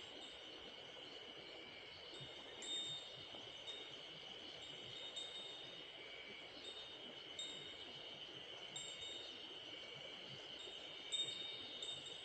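Steady rush of a mountain stream under a constant high-pitched drone, with short, high ringing chirps repeating every second or so.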